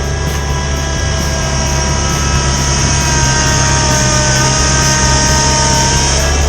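Kubota compact tractor's diesel engine running steadily with its snowblower attachment running, a constant low drone under a steady high hiss.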